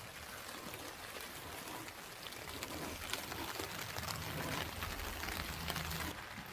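Steady rain falling, with many individual drops striking a surface. A low hum joins between about four and six seconds in, and the sound changes abruptly just after six seconds.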